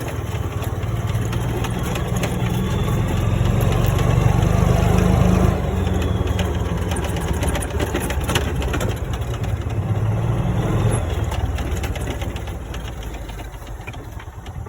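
Golf cart running as it is driven, a steady low engine hum with occasional rattles and knocks from the ride. It eases down over the last few seconds as the cart slows.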